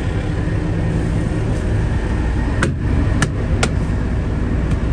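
Diesel truck engine idling with a steady low rumble, with three sharp knocks about a second into the middle of it.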